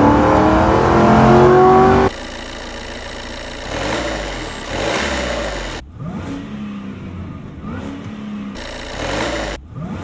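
Car engine accelerating hard, its pitch rising steadily. After a cut about two seconds in, a Chevrolet police car's engine is heard from inside the cabin, revving up and dropping back several times.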